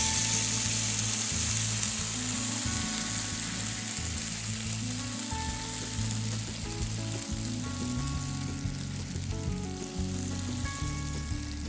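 Vegetable broth poured from a jug into a hot frying pan of seared chicken pieces, sizzling loudest at first and easing off as the liquid fills the pan. Background music plays underneath.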